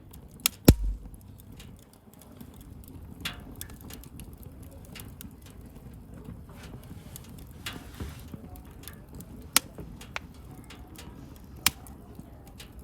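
Wood bonfire crackling, with sharp pops: a loud one just under a second in and a few more scattered through, over a low steady noise of the burning fire.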